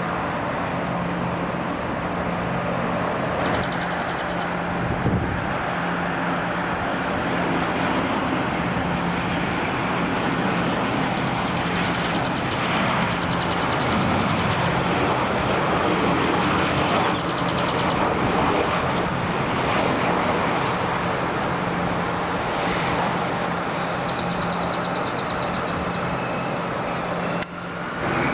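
Jet aircraft engine noise: a steady rushing sound over a low hum, with faint high whines coming and going and a short drop near the end.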